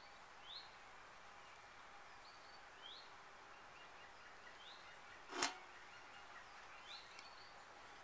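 A bird repeating a short, rising call about every two seconds over a faint outdoor background hiss, with one sharp click about five and a half seconds in.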